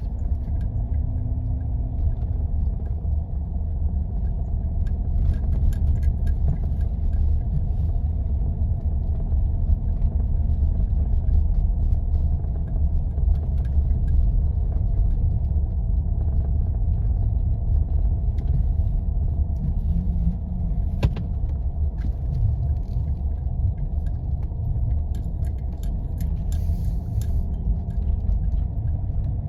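Steady low rumble of a vehicle driving along a snow-covered road, heard from inside: engine and tyre noise, with scattered light clicks and rattles from the cabin and one sharper click about two-thirds of the way through.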